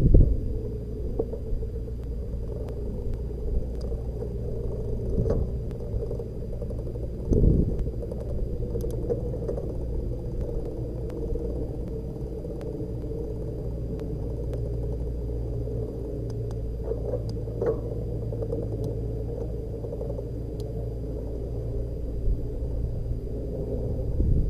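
Steady low rumble of wind and road noise on a camera riding along on a moving bicycle, with a few brief knocks, the strongest about seven seconds in.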